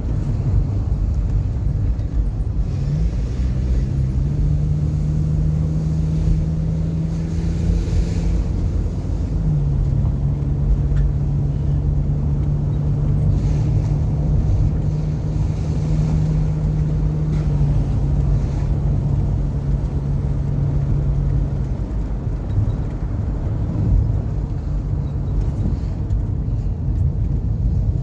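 Car driving on a road: low road and tyre rumble with a steady engine hum that steps in pitch a couple of times and fades near the end.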